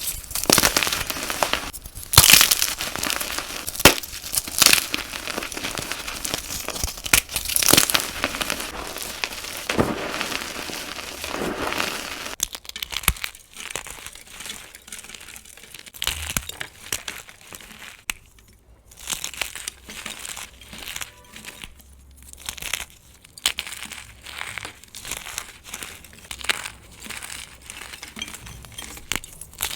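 Gym chalk being crushed and crumbled, with crisp, glassy crunching. Dense loud crunches for the first half, then sparser, quieter crackles as the next clip begins.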